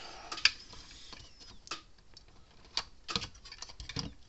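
Scattered light clicks and taps, with a sharper one about half a second in and a quick run of them near the end. The sound is small hard objects being handled at the bench: multimeter probes, the meter and the fence charger's circuit board.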